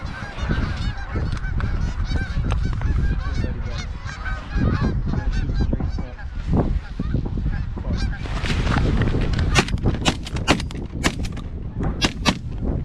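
A huge flock of geese honking all at once, a dense chorus of overlapping calls. In the second half many loud, sharp honks stand out close by.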